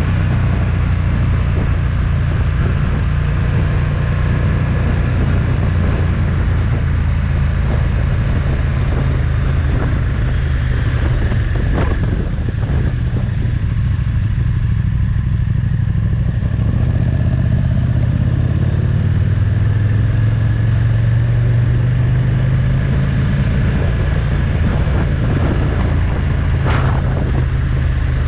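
Motorcycle engine running steadily under way, heard from an onboard camera with a continuous low rumble of riding noise. Two brief sharp clicks come through, one about twelve seconds in and one near the end.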